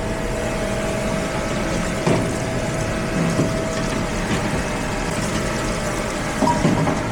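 Steady machine hum with a constant whine running underneath, and a couple of light clinks of metal parts being handled about two seconds in and near the end.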